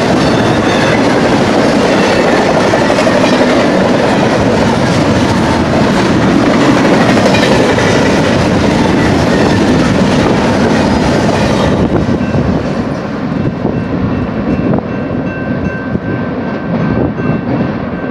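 Intermodal freight train's well cars rolling past at close range: a loud, steady rush of wheel-on-rail noise with clickety-clack over the rail joints. About two-thirds of the way through, the sound drops suddenly and loses its hiss as the last car passes and the train moves away.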